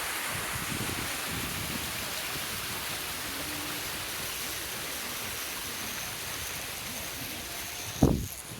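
Steady rushing of water, like a mountain stream or rain. Near the end a loud thump comes, and the rushing drops away.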